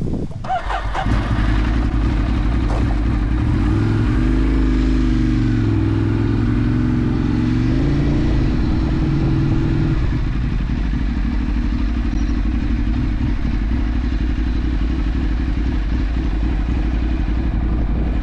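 Ducati 848's V-twin engine running at low speed, loud from about a second in, its pitch wavering up and down for a few seconds in the middle as the bike creeps forward, then settling into a steady idle.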